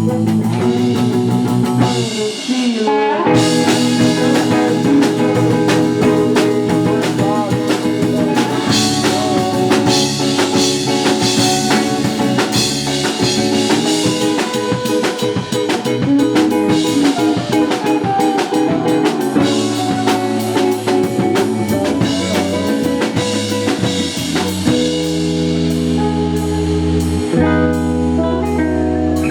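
Live rock band playing an instrumental passage on electric guitar, bass and drum kit, with a steady drum beat.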